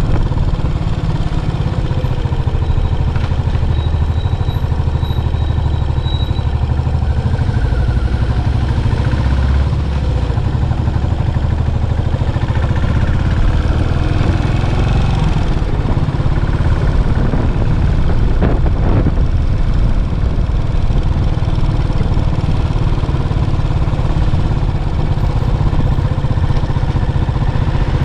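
Yamaha SR400's air-cooled single-cylinder four-stroke engine running steadily through its stock muffler, with a deep, even exhaust pulse.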